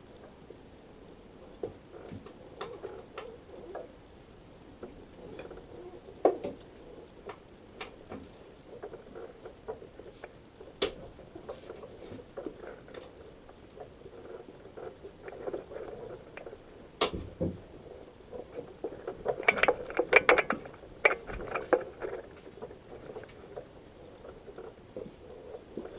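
Irregular clicks, taps and knocks of hand tools and parts being handled during work on a car's engine bay, with a sharper knock about two-thirds of the way through and a quick flurry of clicking shortly after.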